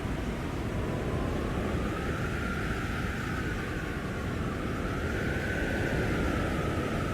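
Blizzard wind blowing hard: a steady low rumble with a whistling howl that slowly rises and falls in pitch.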